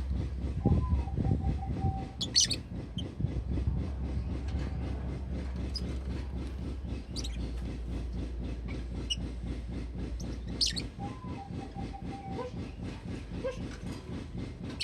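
Pet lovebird giving short high chirps a few times, over a steady low rumble with a fast regular pulse.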